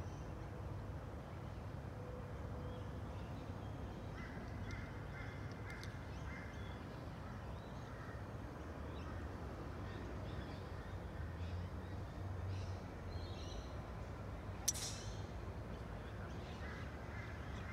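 Birds calling from the trees in the open air, in series of short repeated calls, over a low steady rumble. A single sharp click sounds near the end.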